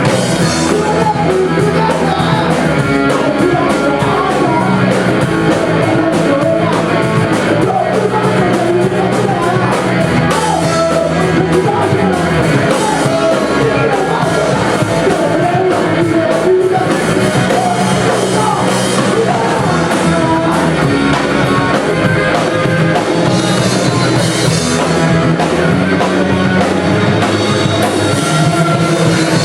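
Rock band playing live, with guitars, drum kit and singing.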